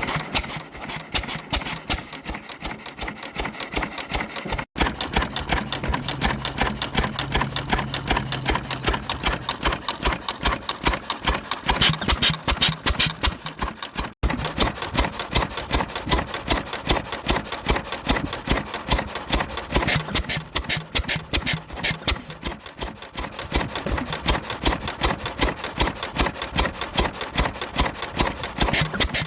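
Bartram A.K 5hp single-cylinder stationary engine running steadily, a fast, even mechanical clatter of its firing and valve gear. The sound drops out for an instant twice.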